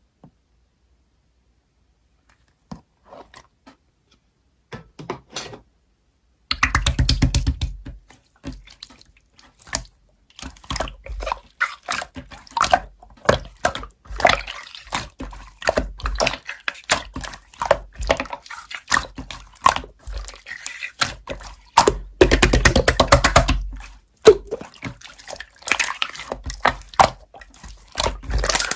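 Irregular wet clicks and crackles, close and loud. They begin as a few scattered clicks and become a dense run about six seconds in.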